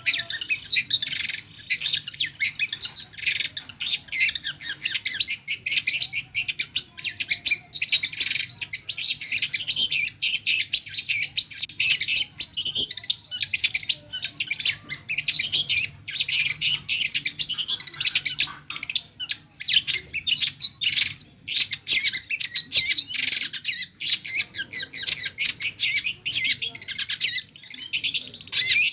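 Long-tailed shrike singing a fast, nearly unbroken run of chirps and squawky notes packed with mimicked calls of other birds.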